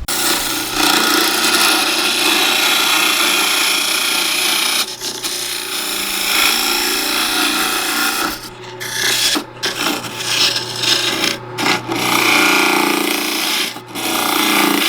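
Turning tool cutting into a spinning cedar bowl on a wood lathe, a continuous scraping rasp over the lathe's steady hum, broken by several brief gaps where the tool lifts off the wood.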